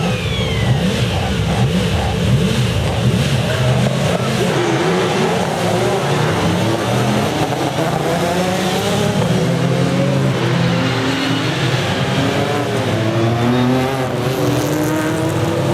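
Several sports saloon race car engines revving and pulling away together, their overlapping notes rising and falling as the field sets off on the green-flag lap.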